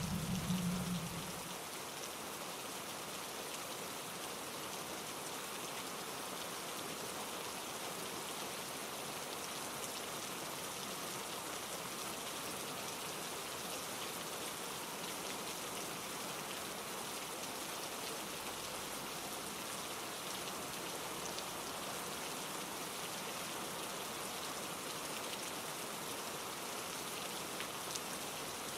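Steady rain falling as an even hiss. A low rumble underneath cuts off about a second and a half in.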